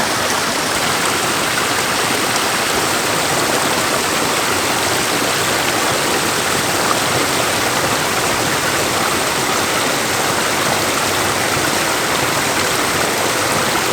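Stream swollen by rain, rushing steadily.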